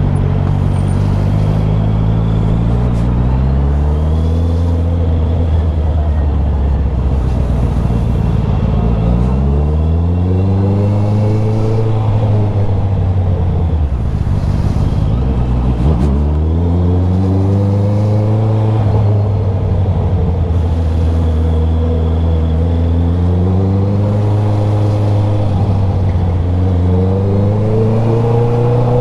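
Motorcycle engine under way, its pitch climbing and then dropping about four times as the bike accelerates and changes gear.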